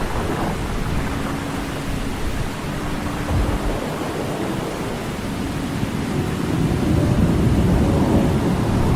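Loud rushing water making a steady, deep rumbling roar that swells a little near the end.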